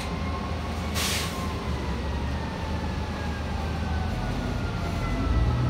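Fire engine's diesel engine running with a heavy low rumble, with a short hiss of air about a second in. The rumble grows louder near the end.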